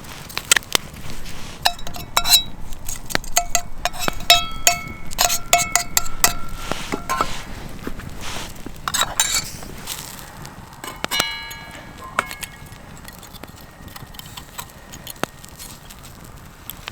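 Metal cookware and utensils clinking and knocking together, some strikes leaving short ringing tones. The clatter is busiest in the first half, with another flurry a little past the middle.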